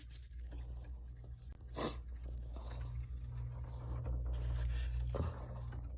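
Frost being bitten and crunched, with a few sharp crunches and a rougher grinding stretch near the end, over a steady low hum.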